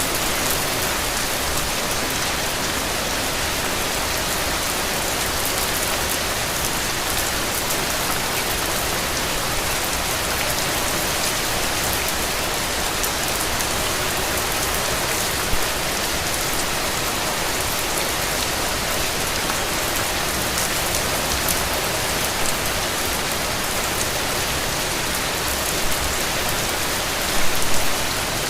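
Steady rain falling on a hard surface: an even hiss dense with the fine patter of drops. Brief louder hits stand out once about halfway through and in a short cluster near the end.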